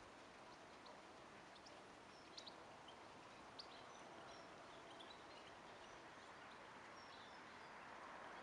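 Near silence: a faint steady outdoor hiss with scattered short, high bird chirps in the background.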